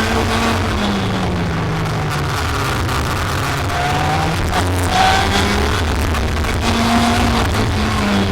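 Racing kart engine running under race conditions, its pitch falling and rising repeatedly as it lifts and accelerates again.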